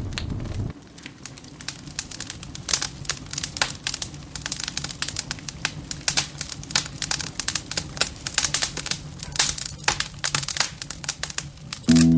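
Burning wood crackling and snapping in a fireplace, irregular sharp pops over a faint low hum.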